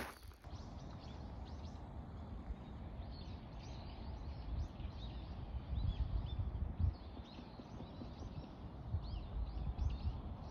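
Small birds chirping and twittering over and over, starting a few seconds in, over a low rumble of outdoor background noise.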